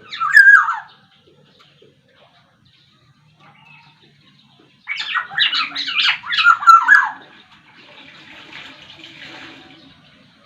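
Black-naped oriole (kepodang sumbawa) calling: one short call falling in pitch right at the start, then about five seconds in a loud two-second burst of rapid, harsh, varied notes. A fainter rustling hiss follows.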